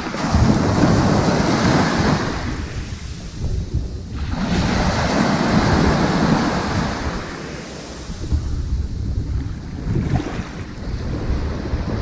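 Ocean surf washing onto a sandy beach: two waves break and wash in, each swelling for two or three seconds and fading, with the next building near the end, under steady wind rumble on the microphone.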